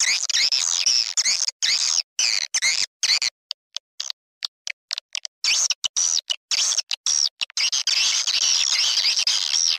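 Recorded swiftlet lure call: dense, high twittering and chirping of edible-nest swiftlets, many quick sweeping chirps overlapping, broken by frequent abrupt short gaps where the sound cuts out.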